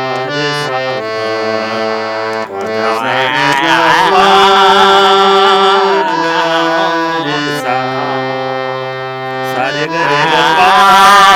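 A harmonium plays sustained reed chords and notes that change in steps. From about three seconds in, and again near the end, a voice sings a wavering, ornamented classical-style melody over it.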